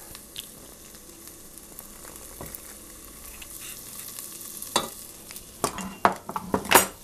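Onion wedges with mustard and cumin seeds frying in hot oil in a pot, a faint steady sizzle. A few sharp clicks and knocks of kitchen utensils come about five seconds in and just before the end.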